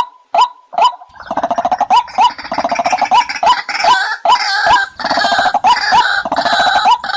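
White-breasted waterhen calling, a short hooked note repeated about two and a half times a second. About a second in, a harsher rapid chattering joins the repeated notes and runs on until near the end. This is a lure call used to trap waterhens.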